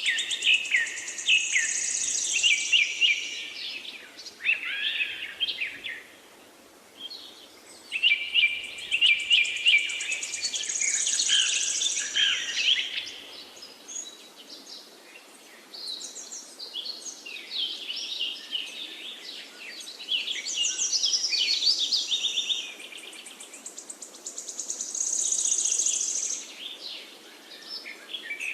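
Several songbirds chirping and singing in overlapping bouts of quick notes and high trills, with short lulls of a second or two between bouts.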